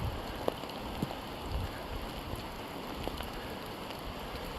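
Steady rain falling on the forest, an even patter with a few sharp drop taps close by.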